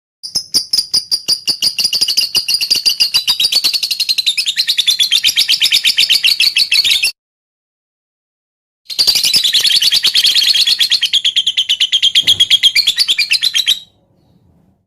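Lovebird giving its 'ngetik' call: a fast run of sharp, clicky chips like typing, in two long bouts broken by a pause of about two seconds.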